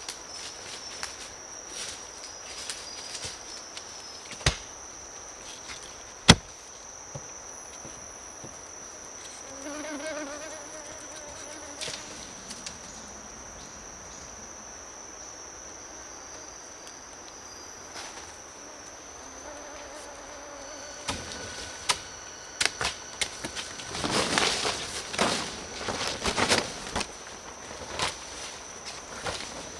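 Steady high-pitched insect drone of the rainforest. Scattered sharp knocks break it, the loudest about six seconds in, and a busy patch of knocking and rustling comes near the end.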